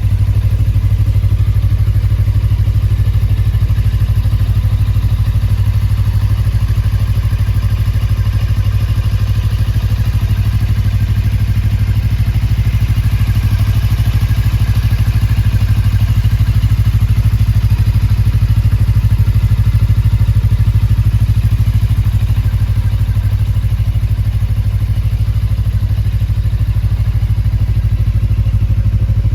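Suzuki GSR250's 248 cc parallel-twin engine idling steadily through a BMS aftermarket muffler.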